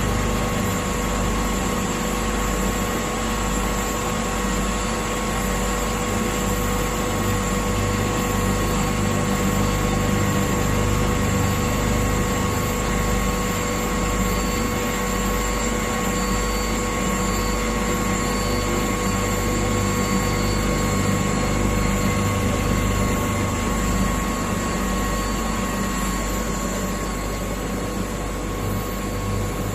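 Internal and external grinding machine running steadily: a low motor hum with several constant whining tones over even machine noise.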